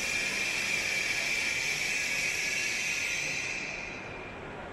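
E7/W7-series Shinkansen train rolling slowly alongside the platform: a steady hiss carrying a high tone that fades away about four seconds in as the train comes to a stop.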